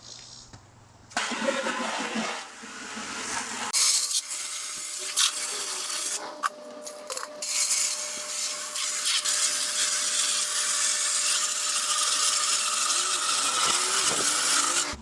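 Water running hard into a bucket, a steady rushing hiss whose tone rises a little as the bucket fills, cut off abruptly near the end.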